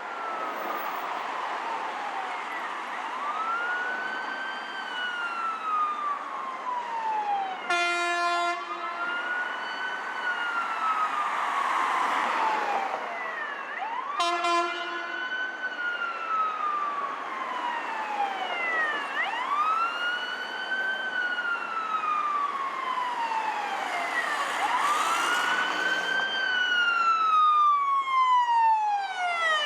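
Fire engine and rescue ambulance sirens wailing, two or more sirens rising and falling out of step every few seconds. Two short horn blasts break in, about six seconds apart.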